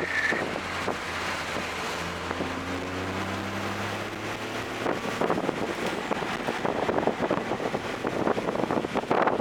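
Toyota GR Corolla's turbocharged 1.6-litre three-cylinder engine, fitted with an aftermarket intake, pulling hard with its pitch rising, then cutting off about five seconds in. After that, road and wind noise with many short knocks and rattles.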